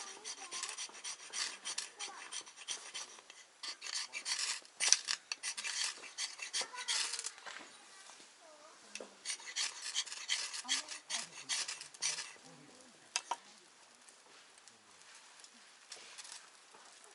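Intermittent scraping and rubbing with a few sharp clicks, coming in two spells with a quieter stretch between them and near the end: something being handled or stirred by hand.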